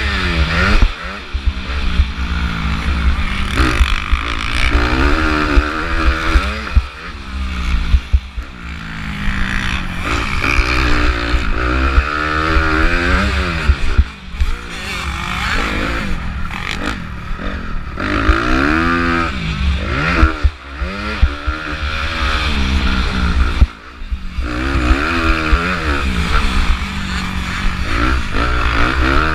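A 2015 Honda CRF250R's four-stroke single-cylinder engine revving up and down under race throttle, heard from a helmet camera. Its pitch climbs and falls again and again as the throttle is opened and chopped, with a few sudden brief drops in level.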